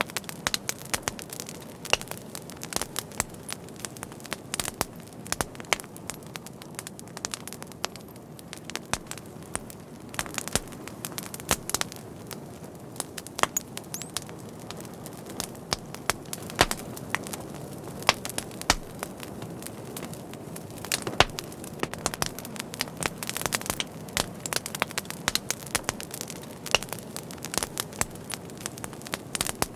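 Wood fire burning steadily, with a constant low rustle and frequent sharp, irregular crackles and pops.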